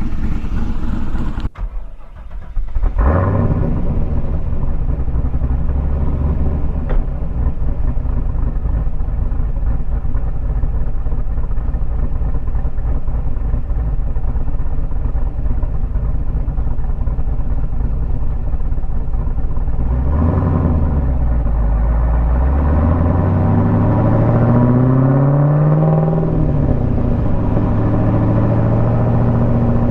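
Supercharged 408 LS V8 with a Summit Racing Pro LS 8722R1 cam, in a C5 Corvette, running at steady speed on the road. About two-thirds through, the engine note dips, then climbs steadily for several seconds as the car accelerates, and settles at a higher pitch.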